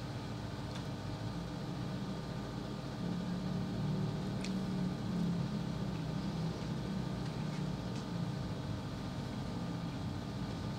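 A steady low hum with hiss, broken by a few faint clicks from a man chewing food with his mouth closed.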